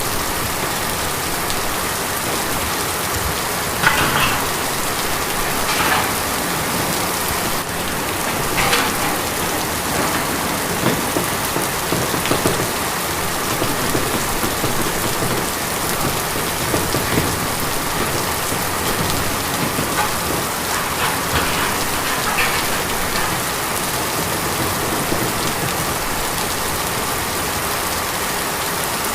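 Steady rain falling on a tin roof, a constant patter with a louder drop or plink now and then, the sharpest about four seconds in.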